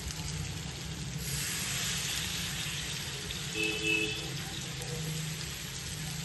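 Spiced chicken frying in a pan, a steady sizzle that grows brighter about a second in.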